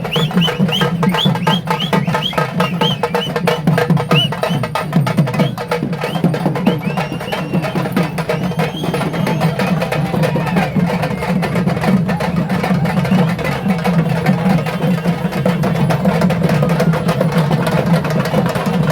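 Fast, dense drumming of a Pettai Thullal procession, with a crowd's voices and short, repeated high calls over it in the first half.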